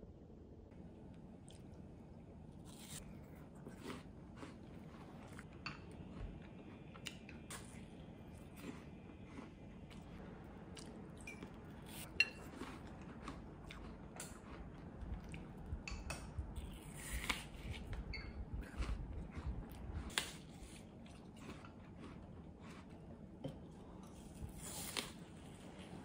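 A person biting into and chewing a raw apple slice topped with boiled egg and yogurt. The apple gives a string of crisp crunches, sparse at first and more frequent in the second half.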